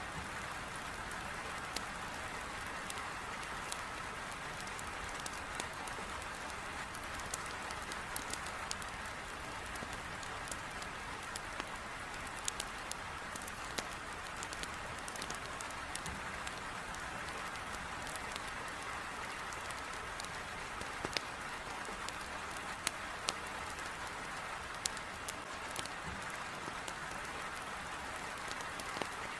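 Heavy rain falling steadily, beating on window glass, with sharp irregular crackles and pops from firewood burning in a fireplace scattered through it.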